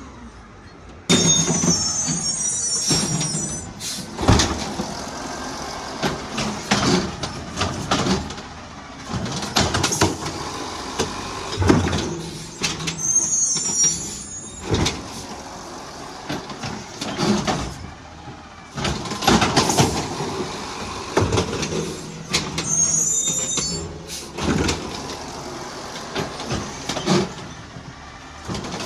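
Garbage truck at work: its engine runs under load amid repeated metallic clanks and bangs. A high squeal returns about every ten seconds, three times in all, as the working cycle repeats.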